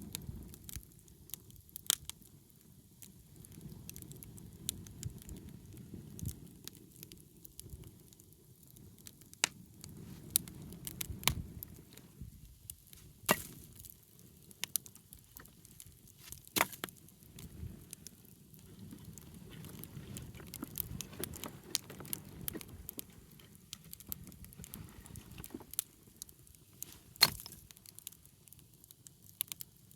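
Wood bonfire crackling, with irregular sharp pops of burning wood, the loudest near the end, over a low rumble of the flames.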